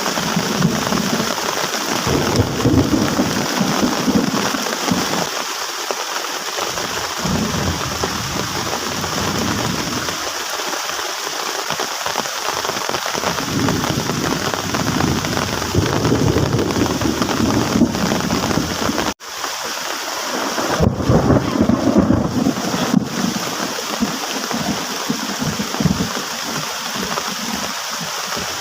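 Heavy rain pouring down and drumming on a plastic tarp shelter, a steady loud hiss with low rumbling swells that come and go. The sound cuts out for an instant about 19 seconds in.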